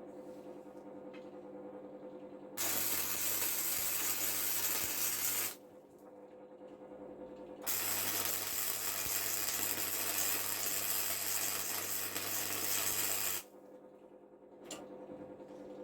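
A power tool working steel for anchor rods runs in two spells of steady harsh hiss with a low hum, about three seconds and then about six seconds.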